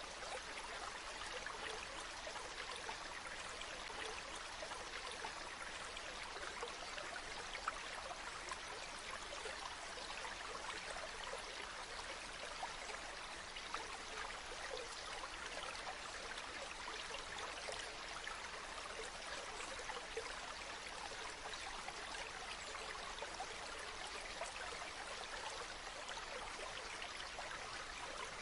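Running water: a steady, even rush with fine splashing and trickling throughout, as of a stream or small waterfall.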